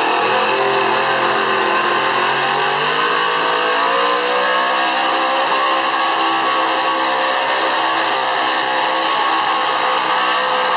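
Street 4x4 pulling truck's engine at full throttle under load, dragging the weight sled. Its pitch climbs a couple of seconds in, then holds high and steady.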